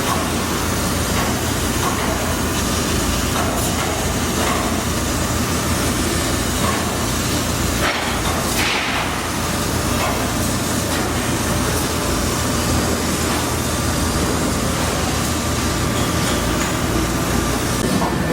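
Steady machine noise in a metalworking shop, with a low hum and a few scattered light knocks.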